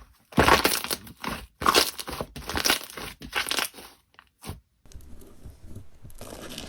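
Crunchy slime being squeezed and pressed by hand, giving a string of loud crackling, crunching squishes. A few seconds in it gives way to a quieter, steadier fine crackle.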